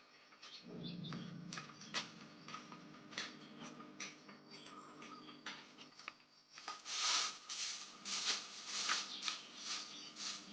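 Rustling and light clicking and clattering of things being handled, busier and louder in the second half, over a low steady hum that drops out about six seconds in.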